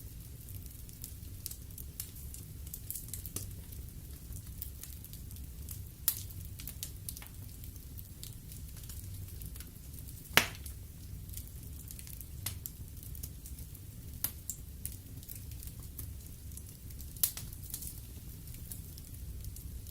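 Wood fire burning in a fireplace: a steady low rumble of flames with irregular crackles and sharp pops of the burning logs, the loudest pops about six seconds in, about ten seconds in and again near the end.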